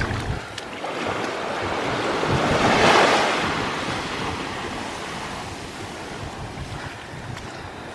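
Sea waves breaking and washing on a beach: one wave swells and breaks about three seconds in, then the wash slowly fades, with some wind noise on the microphone.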